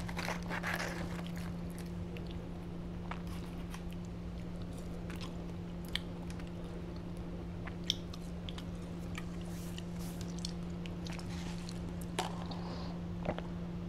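A person chewing and biting into fried chicken tenders close to a clip-on mic, with scattered small crunches, clicks and mouth sounds. A sip through a straw comes near the end. A steady low hum runs underneath.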